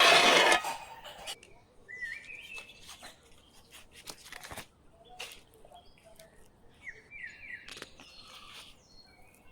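A short, loud rustling noise in the first second, then small birds chirping in brief whistled phrases twice, with scattered light clicks.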